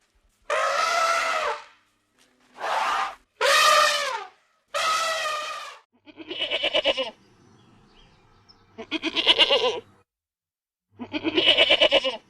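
A series of loud animal calls: four pitched, bleating calls in the first half, then three longer pulsing calls a couple of seconds apart.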